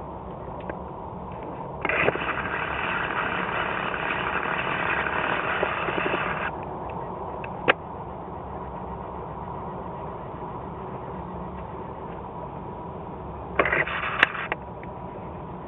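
Airbus A330-243F's Rolls-Royce Trent 700 jet engines running, a steady rumble with a faint constant whine. About two seconds in a louder, harsher rush starts suddenly and cuts off some four seconds later; a sharp click follows, and a short loud burst comes near the end.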